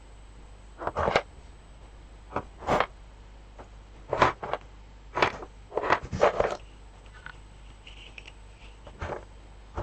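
Sewing supplies being handled and set down in a sewing box: a series of short, irregular clatters and rustles, some coming in quick pairs, with a longer cluster a little past the middle.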